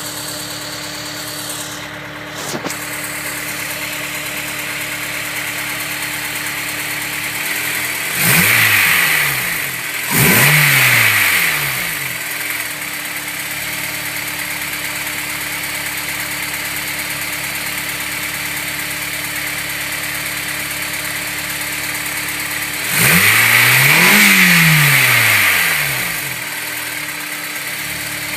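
Cold car engine idling, blipped three times: twice in quick succession about a third of the way in, and once more, held longer, about three-quarters of the way in. A steady hum keeps the same pitch through the revs. This is the noise the owner hears when the engine is cold.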